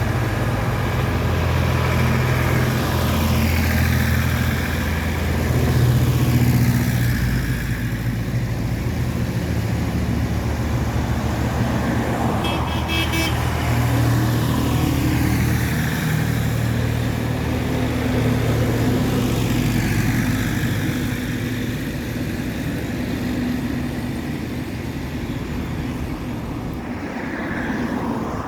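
Engines of a procession of tractors and other vehicles running and passing one after another, with a brief run of quick horn toots about halfway through.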